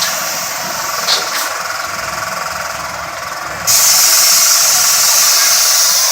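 Helicopter running in flight: a steady motor whine, with a sudden rise to a louder rushing hiss about three and a half seconds in.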